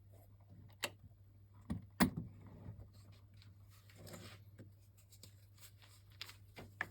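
Scattered light clicks and knocks of small parts and a tool being handled on a workbench while RC truck wheels are refitted, with a few sharper taps in the first two seconds and one near the end, over a faint steady hum.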